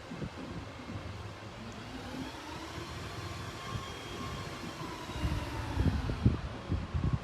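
A distant engine droning, its pitch slowly rising and then falling, with low bumps of wind on the microphone in the last couple of seconds.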